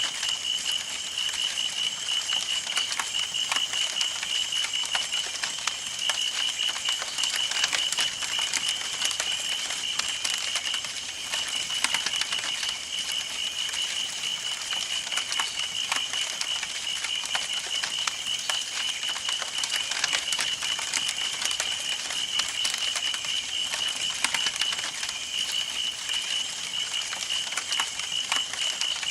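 Wood campfire burning, with constant irregular crackles and pops. Behind it runs a steady, rapid, high-pitched chirping.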